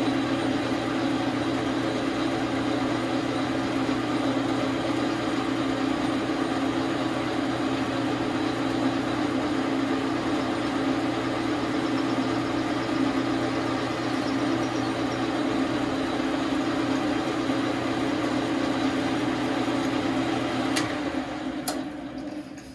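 Dar Sin 12 x 37 manual lathe running steadily while turning a taper. About 21 seconds in there are a couple of sharp clicks, and the machine is switched off and winds down.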